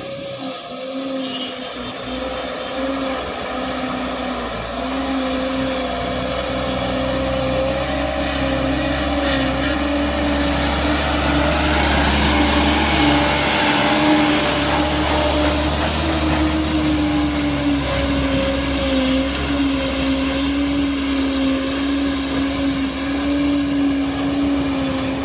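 Container truck's diesel engine running, a steady drone with a whine that wavers slightly in pitch over a low rumble, growing louder through the first half and then holding.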